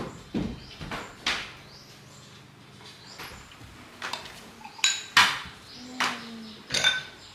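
Utensils knocking against dishes: a series of irregular sharp clinks, a few of them ringing briefly near the end.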